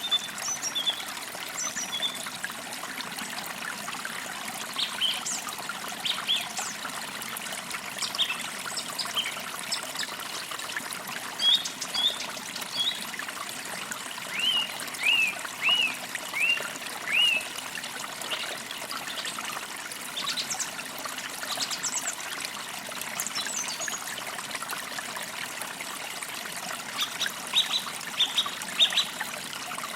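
Small forest creek trickling steadily, with birds chirping over it. A run of short down-slurred chirps comes about halfway through, and a quick burst of high chirps near the end.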